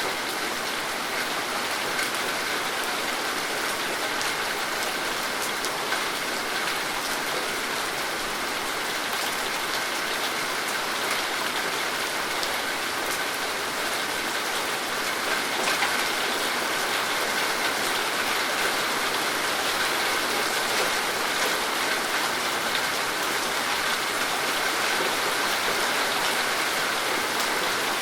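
Steady rain falling, a continuous even hiss with the patter of individual drops scattered through it.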